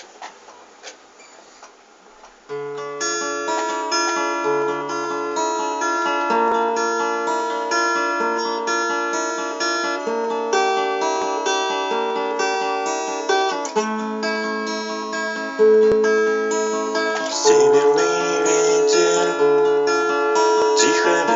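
Acoustic guitar playing a melody in a steady, even rhythm, starting about two and a half seconds in after a faint hiss, and getting louder near the end.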